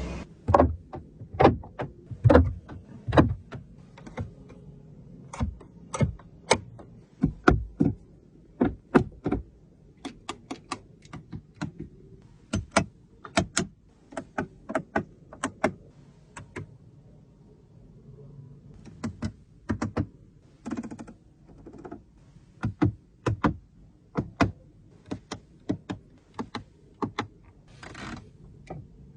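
A long series of sharp, irregular clicks and taps, loudest in the first few seconds and again around the middle, with a brief lull partway through.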